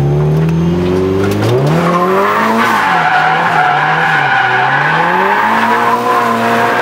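Nissan 240SX drifting. The engine revs climb over the first two seconds, then hold high and rise and fall with the throttle, while the tyres squeal through the slide.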